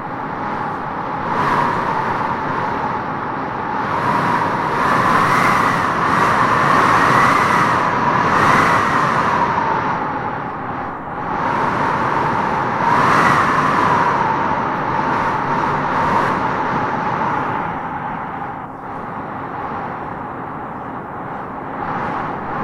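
Howling wind gusting through trees, a steady rush with a whistling howl that swells and falls: strong gusts about five to nine seconds in and again around thirteen seconds, easing off after that.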